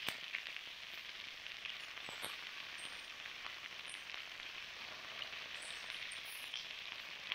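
Potatoes sizzling steadily as they fry over a campfire, with a few faint clicks.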